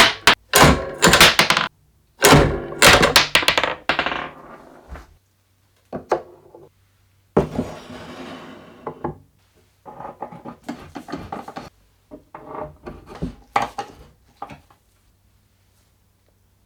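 Irregular knocks, clicks and clatter of parts being handled and worked, in several bursts. There is a rasping, scraping stretch about seven and a half seconds in.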